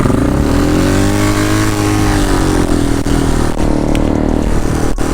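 Quad (ATV) engine running under the rider, its pitch rising for about a second as it revs up, then easing back down and running steadily.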